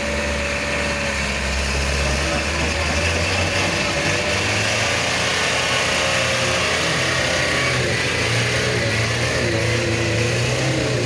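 Diesel truck engine running steadily, its pitch stepping up about four seconds in and holding at the higher speed.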